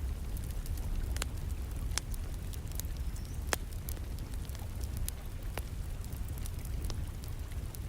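Wood fire burning in a fireplace, crackling with scattered sharp pops over a steady low rumble, with a soft patter of rain behind it.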